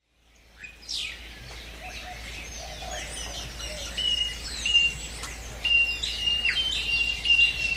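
Birds chirping, many short calls overlapping with a few held whistled notes, fading in over the first second, over a steady low hum.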